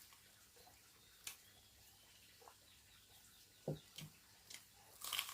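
Near quiet, broken by a few brief faint clicks and taps: one a little over a second in, two close together near the end, and a slightly louder one right at the close.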